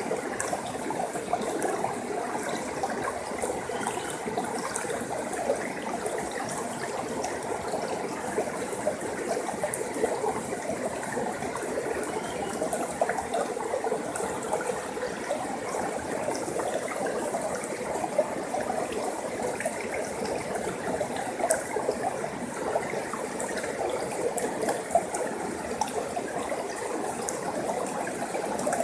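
Forest stream flowing steadily over rocks, a continuous babble with small splashes and trickles.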